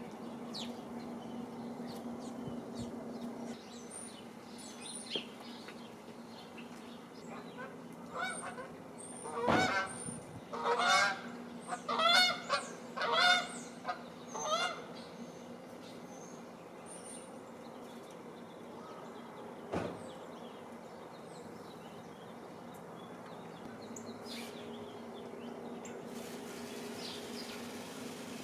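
Geese honking: a run of six or seven loud honks over several seconds in the middle, over faint high chirps of small birds and a low steady hum.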